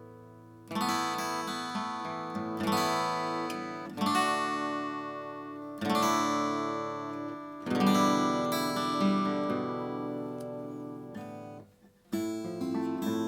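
Acoustic guitar strummed in full chords, each chord left to ring out before the next. Just before the end the strings are damped to a brief stop, then the strumming comes back quicker.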